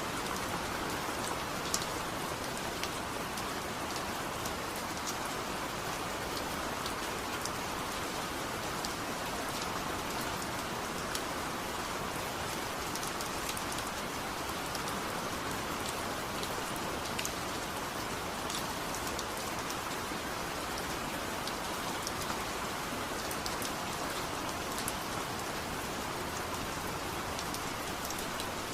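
Steady rain falling, an even rushing hiss with scattered small drips and taps of raindrops.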